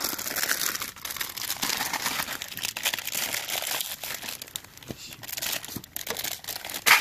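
Plastic instant-ramen packaging crinkling as it is handled and torn open, a dense steady crackle with one sharper crack near the end.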